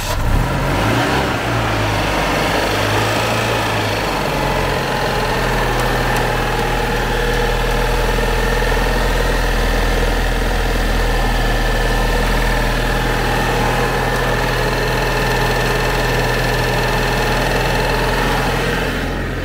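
A 1986 Citroën 2CV6's air-cooled flat-twin engine idling just after a cold start. Its speed wavers for the first few seconds, then settles into a steady idle.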